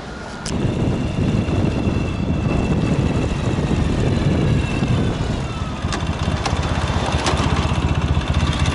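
An engine starts running abruptly about half a second in and keeps going with an even, fast pulsing rumble, like a motor idling close by. A few light clicks come near the end.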